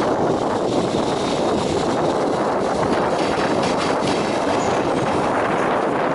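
Locomotive-hauled train of new Toei 6500 series subway cars passing: a steady rumble of wheels on rail, with a few wheel clacks over rail joints about three to four seconds in.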